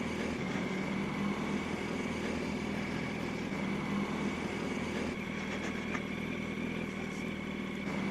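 Yamaha R1 inline-four motorcycle engine running at a steady, low engine speed, heard from the rider's helmet or bike-mounted microphone while creeping through traffic.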